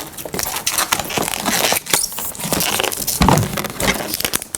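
Latex twisting balloons being handled and worked by hand: a dense run of rubbery rubbing, crackling and clicking, with a heavier dull thump a little past three seconds in.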